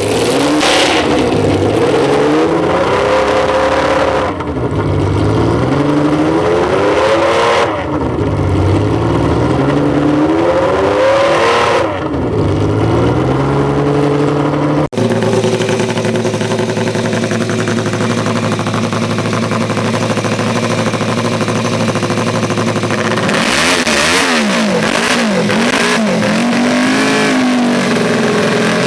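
Classic car engine revved up and down over and over, each rev lasting a few seconds. After a sudden cut about halfway through, an engine idles steadily, then is revved again near the end.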